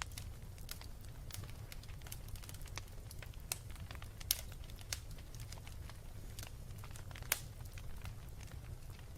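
Wood fire burning with a steady low rumble and scattered sharp crackles and pops, the loudest pops a little past four seconds and past seven seconds in.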